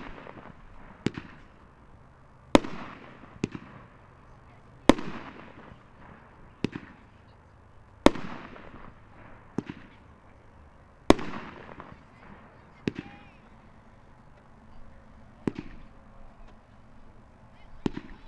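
Dominator "Haunted Fish" 500-gram consumer firework cake firing: sharp reports about every one to two seconds, each trailing away in a fading hiss.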